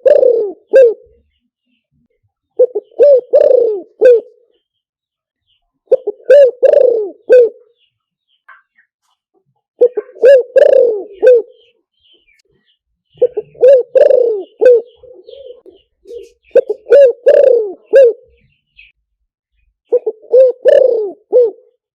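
Spotted dove cooing: a phrase of four or five coos, repeated about every three and a half seconds, seven times. This is a decoy-call recording played to lure wild spotted doves.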